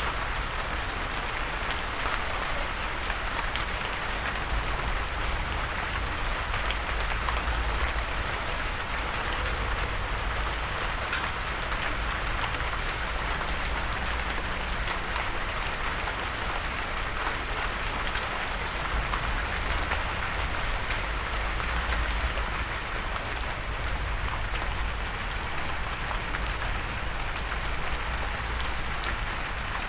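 Steady rainfall pattering on a surface, an even hiss with many small drop ticks and a low rumble underneath.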